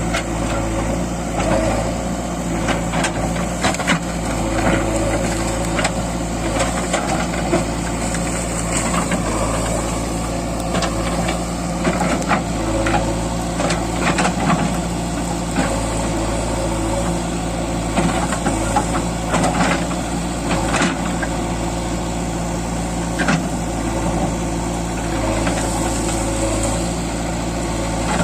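JCB 3DX backhoe loader's diesel engine running steadily, with frequent short knocks and clanks from the machine's working parts over it.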